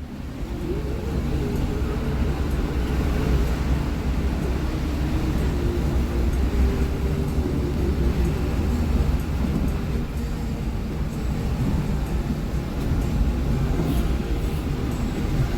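Hino R260 bus's diesel engine and road noise heard inside the passenger cabin while under way: a steady low rumble with an even hiss over it.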